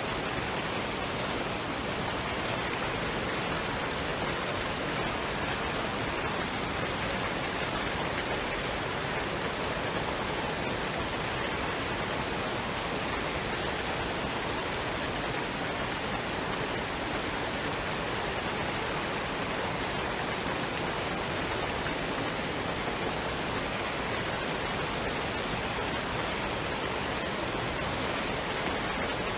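Waterfall and stream running water: a steady, even rushing with no changes.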